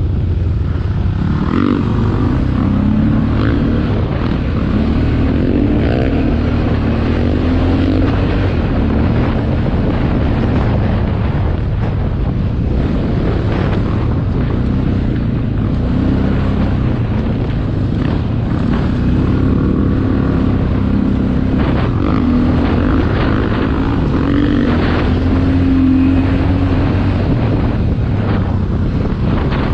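Motocross motorcycle engine running hard, its pitch rising and falling again and again as it revs up and backs off.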